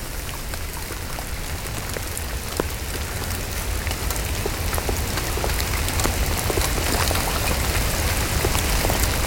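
Heavy rain: many separate drop ticks striking the plastic carrier bag over the camera, over a steady hiss of rain falling on the pond, growing slowly louder.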